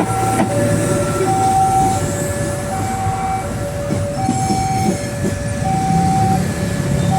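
Railway level-crossing warning signal sounding two alternating tones, high and low, each held about two-thirds of a second, over the rumble of a passing electric commuter train.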